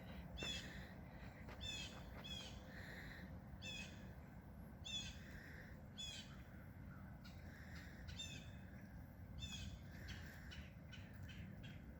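A bird calling over and over in short calls, about ten in all, roughly one a second, with a softer, lower call repeating between them.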